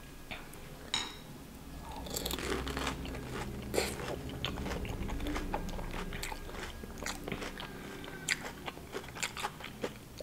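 Close-up crunching and chewing of a pani puri: the hollow fried puri shell, filled with mint water and potato, is eaten whole and crackles with many quick, sharp crunches as it is chewed.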